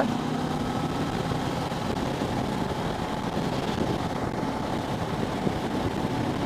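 Motorcycle riding along at a steady pace, its engine running under a steady rush of wind and road noise on the microphone.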